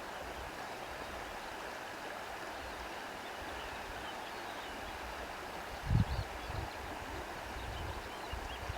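Steady rush of flowing river water, with a few low thumps about six seconds in and faint high chirps in the second half.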